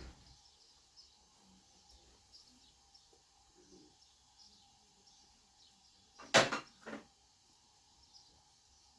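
Two sharp knocks about half a second apart, the first louder, over a quiet background.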